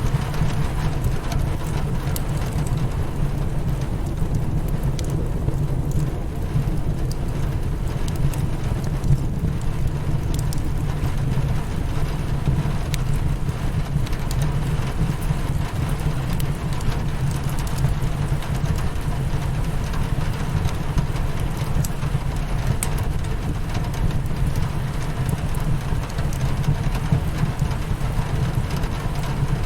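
Rain beating on a window with a steady low rumble, over a wood fire crackling with scattered sharp pops.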